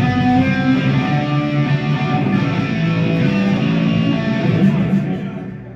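Rock band playing live, led by guitars with bass underneath. The music dies away about five seconds in.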